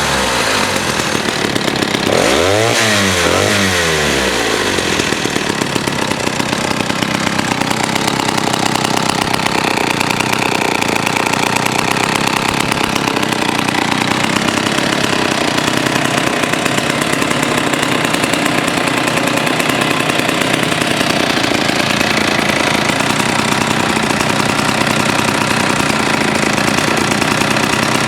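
Vintage Pioneer Super 620 103cc two-stroke chainsaw running: revved up and back down once a couple of seconds in, then idling steadily.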